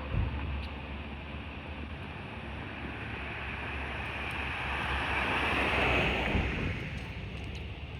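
Aircraft passing overhead: a wide, rushing noise that swells to its loudest about six seconds in and falls away, with a falling sweep in pitch as it goes by. A low rumble of wind on the microphone runs under it.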